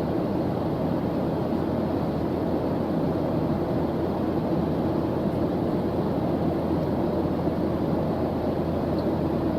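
Steady white-noise track: an even, deep rushing hiss that does not change.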